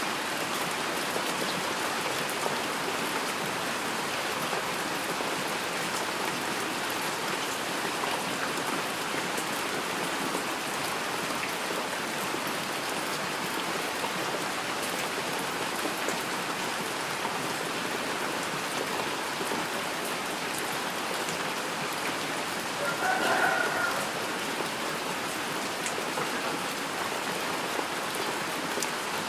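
Heavy rain falling steadily, a dense even hiss of drops on surfaces. About three-quarters of the way through, a brief pitched sound rises slightly above it.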